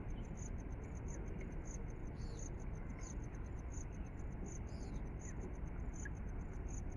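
Steady low outdoor rumble with rapid high-pitched chirping repeating several times a second, and a few falling chirps among it.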